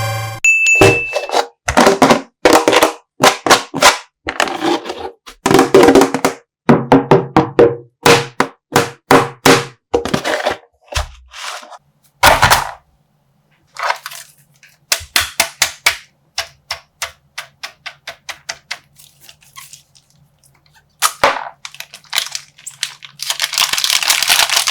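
Plastic bag of slime being squeezed and popped by hand: rapid runs of sharp crackling pops and crinkles, thinning out about halfway, then a longer stretch of crinkling plastic near the end as the bag is torn open.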